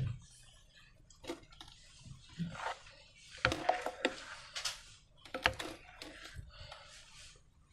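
Slime being worked by hand: irregular sticky squelches and small crackling clicks, busiest about halfway through, with a few sharper snaps.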